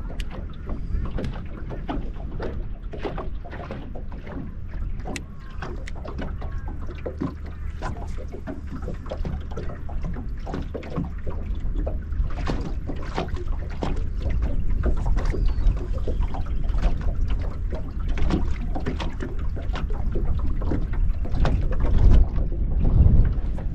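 Small fishing boat under way on choppy water: a steady low motor hum with water slapping and splashing against the hull, getting louder toward the end.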